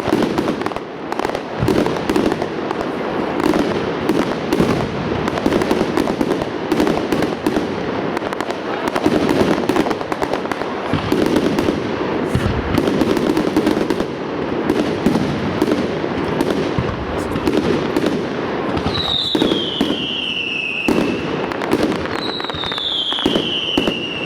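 Professional firework display: a dense, continuous barrage of bangs and crackling. Near the end come two whistles, each falling in pitch.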